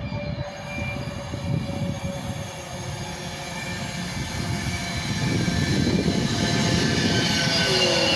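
Passenger train approaching at speed and passing close by a station platform. Its rushing noise builds steadily and is loudest from about five seconds in as the train draws level, with a falling tone near the end.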